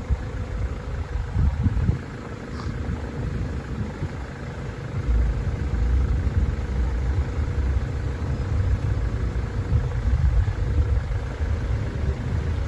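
Car driving, heard from inside: a steady low rumble of engine and road noise that grows louder about five seconds in.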